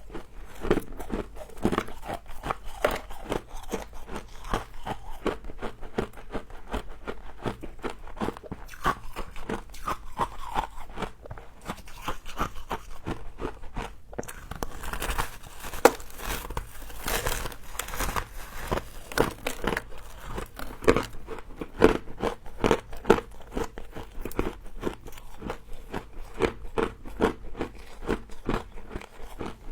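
Close-up crunching and chewing of frozen humidifier frost, many quick, irregular crunches. About halfway through there is a stretch of louder crackling.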